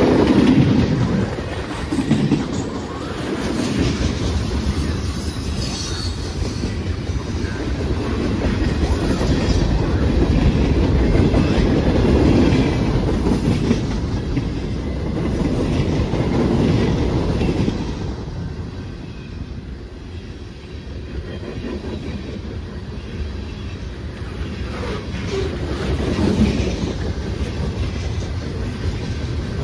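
A freight train's cars rolling past close by: a steady rumble of steel wheels with repeated clacking over the rail joints, swelling and dipping in loudness as the flatcars and hoppers go by.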